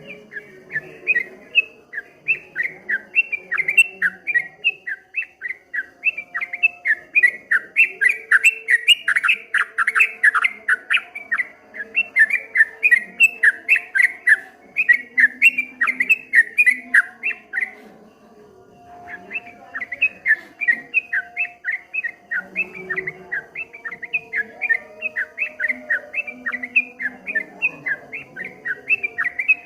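Yellow-vented bulbul (trucukan) singing a fast, rolling 'ropel' song of quick chattering notes. It pauses for about a second around two-thirds of the way through, then carries on.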